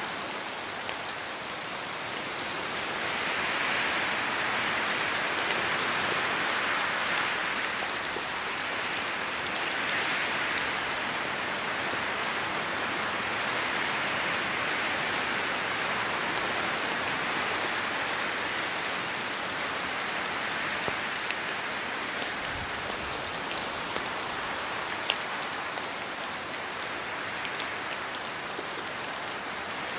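Steady rain falling on a forest, with scattered sharp drop ticks and slow swells in the hiss that fit gusts of wind.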